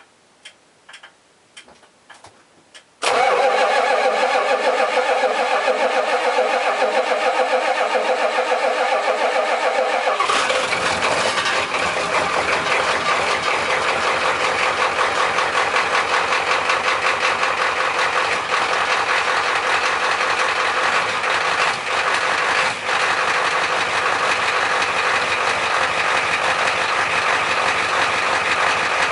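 Cold start of an old diesel truck engine with two bad glow plugs: a few light clicks, then the starter cranks for about seven seconds before the engine catches about ten seconds in and settles into a rough idle, not firing on all cylinders at once.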